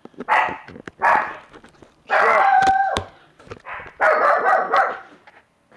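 A dog barking loudly: four barks, the last two long and drawn out.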